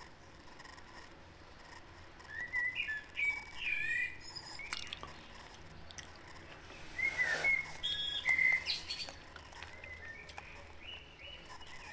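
Small birds chirping in the background in two bursts of short, gliding chirps: one a couple of seconds in, the other about seven seconds in, with a few faint clicks between them.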